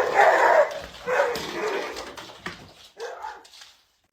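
Dog barking and vocalising in a series of rough bursts that grow weaker and die away near the end.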